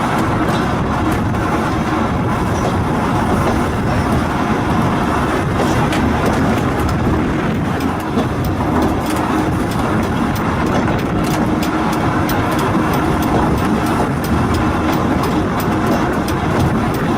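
An electric car of the Volk's Electric Railway running along its track: a steady rumble, with many small clicks about halfway through.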